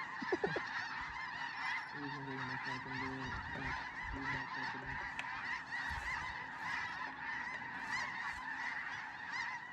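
A large flock of snow geese calling, a dense, continuous chorus of many overlapping high yelps as the birds circle low over a decoy spread.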